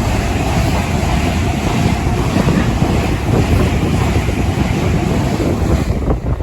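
Train passing close by the platform: a steady loud rush of wheels and air, with wind buffeting the microphone, easing just before the end.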